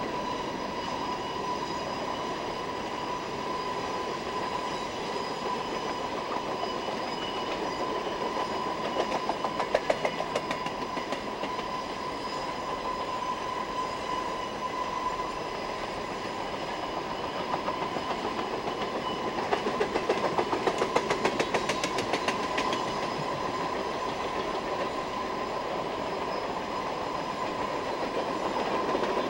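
Loaded coal train's hopper cars rolling past at a distance, a steady rumble of wheels on rail, with two spells of rapid clickety-clack as wheels cross rail joints, about nine seconds in and again around twenty seconds in.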